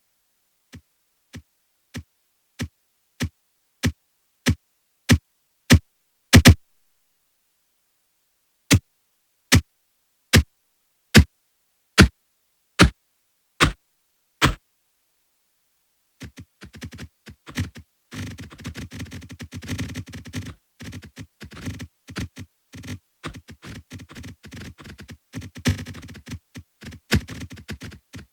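Short, sharp electronic clicks. First comes an evenly spaced run that grows louder, then after a pause a second, slower run that fades. From a little past halfway, a dense, irregular patter of clicks takes over.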